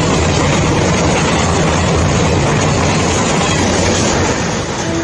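Train running on rails, a loud steady clatter of wheels and carriages, cutting off abruptly near the end.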